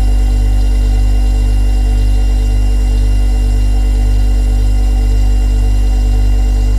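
Refrigerator running with a steady, deep hum, a faint regular pulse in it and thin higher tones over the top.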